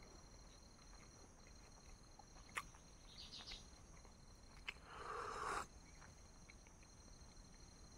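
Near silence, with a faint steady high-pitched insect drone like crickets in the background. A few soft clicks and a brief rustling burst come about five seconds in.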